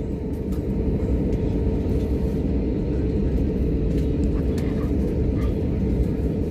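Airliner cabin noise before takeoff: a steady low rumble of the jet engines with a constant hum, growing slightly louder over the first couple of seconds.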